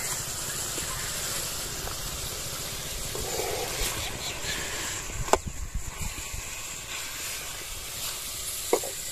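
Chicken pieces and spices sizzling in a steel karahi over a wood fire, a steady hiss. There is a sharp click about halfway through, and a few ladle clinks near the end as the curry is stirred.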